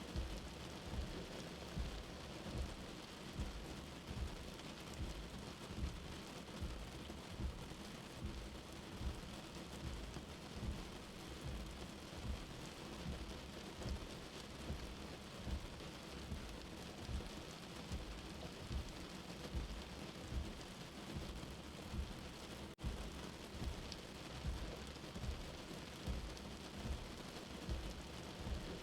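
Steady rain as heard from indoors, with a soft, low heartbeat thumping about once a second. There is a split-second dropout about three-quarters of the way through.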